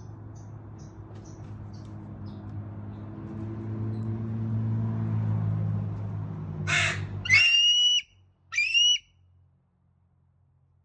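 Two short, high clear calls from a bald eagle, about a second apart, late in the stretch. Before them a low steady hum swells and then cuts off, with a brief burst of noise just before the first call.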